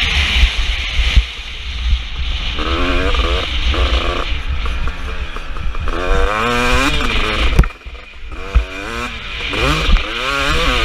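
KTM 250 SX two-stroke motocross engine revving hard and falling back again and again as the bike is ridden round the track, over steady wind noise and low rumble. About three quarters of the way in there is a sharp knock, the engine briefly drops off, then picks up and revs again.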